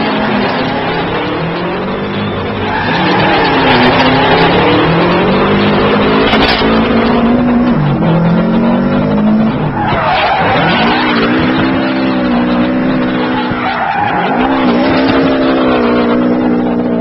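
Subaru rally car's turbocharged flat-four engine revving hard during a drift, its pitch rising and falling again and again with sharp drops as the driver lifts and gets back on the throttle, over a steady hiss of tyres sliding and squealing on tarmac.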